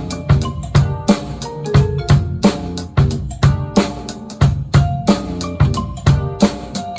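Drum kit played in a steady groove along with a recorded backing track: bass drum, snare and cymbal strokes over the band's melody.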